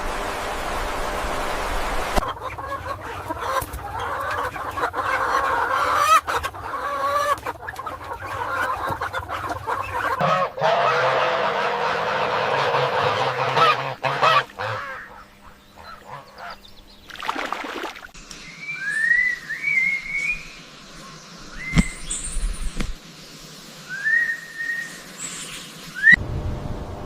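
Domestic fowl calling in several short cut-together clips, with a few high, rising chirps in the latter part.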